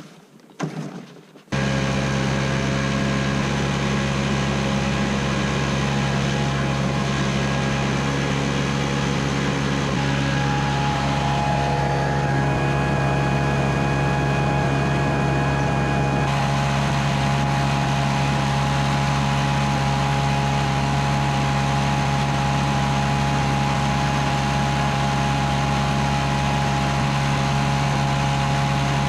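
Stihl gas leaf blower starting: a short burst, then the engine catches about a second and a half in and runs steadily, used to blow bees out of honey super frames.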